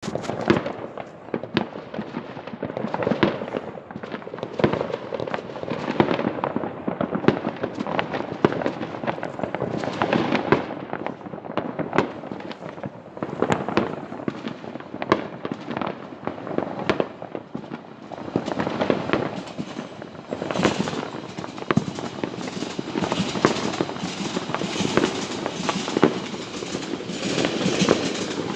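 Many fireworks going off across a city at once: a continuous crackle of distant bursts with frequent sharp bangs at irregular intervals, some louder and closer than others.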